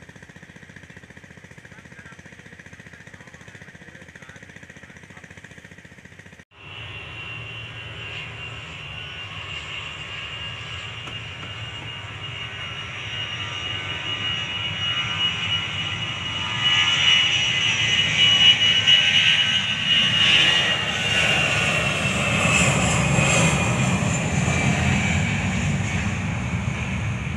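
Jet engines of a Boeing 737-300 (CFM56-3 turbofans) passing by: after a faint steady background and an abrupt break about six seconds in, the engine noise with a high whine grows louder, peaks past the middle, and then the whine falls in pitch as the jet moves away.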